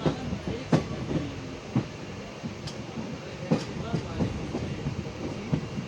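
Passenger train running on the track, with a steady rumble and irregular knocks and clacks of wheels over rail joints, the loudest about a second in and again past the middle.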